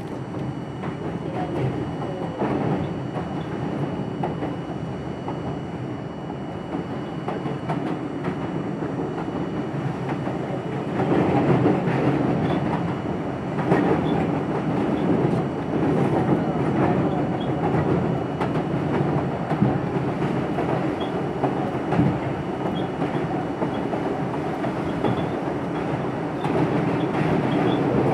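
R42 subway train running along the elevated Jamaica line: a steady rumble of the cars with wheels clattering over the rail joints, growing louder about eleven seconds in.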